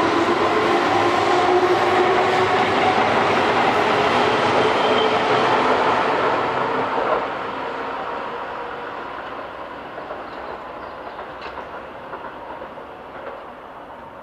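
Keihan 2600 series electric train moving off along the track, its wheels running on the rails, with a whine that rises slightly in pitch over the first couple of seconds. About seven seconds in the sound drops suddenly as the last car goes by, and the train then fades away into the distance with a few faint clicks from the rails.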